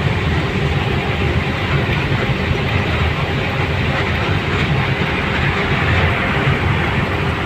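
Steady, loud rumbling travel noise of a moving vehicle, with a deep low rumble and an even rushing hiss and no clear engine note.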